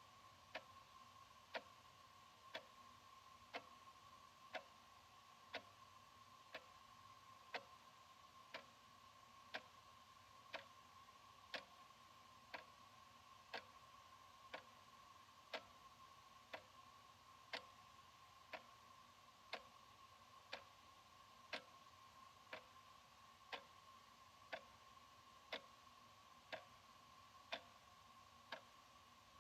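Analog wall clock ticking steadily, one sharp tick a second, over a faint steady hum.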